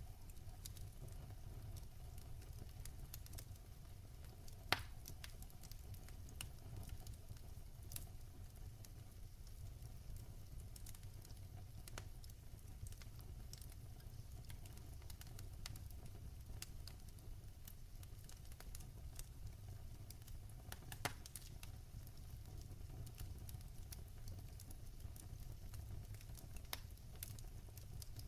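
Fireplace fire crackling: scattered small clicks over a faint low rumble, with a sharper pop about five seconds in and another about twenty-one seconds in.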